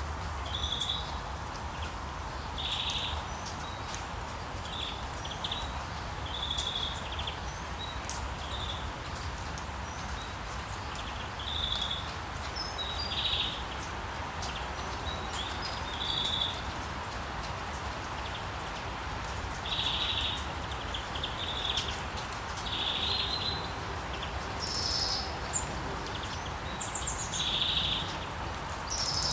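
Rainforest ambience: a steady hiss of rain with a low rumble under it, and short high bird chirps repeating every second or two, a few higher calls joining near the end.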